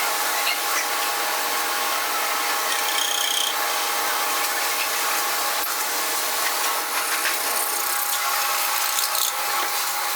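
Electric drill running steadily with a constant whine, boring through two stacked pieces.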